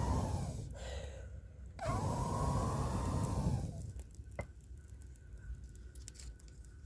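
Two drawn-out whining cries, each held on one pitch for a second or more, the second starting about two seconds in; then quieter, with a few faint clicks.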